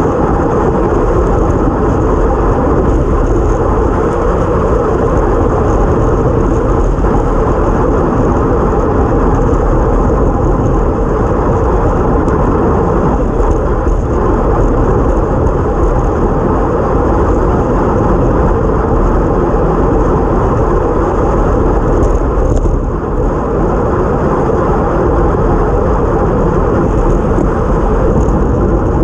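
Steady wind rushing over the microphone of a bike-mounted GoPro at racing speed, over the hum of tyres on a wet road.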